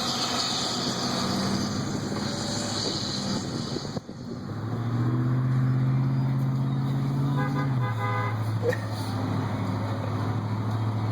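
Heavy truck engine pulling uphill: a steady rushing noise gives way about four seconds in to a steady engine note that steps down in pitch near eight seconds, as at a gear change. A short horn toot sounds just before the drop.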